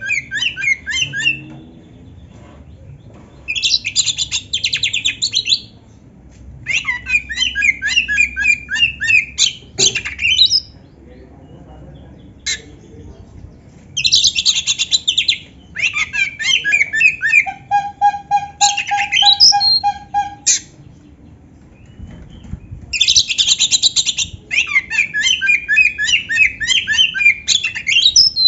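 Oriental magpie-robin (kacer) singing a full, varied song laced with canary-like phrases, in loud bursts of a few seconds separated by short pauses. About two-thirds of the way through, one burst holds a steady, rapid trill of evenly repeated notes.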